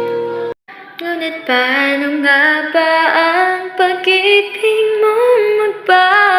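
Background music: a held chord cuts off about half a second in, then a woman sings a slow melody with sliding, wavering notes.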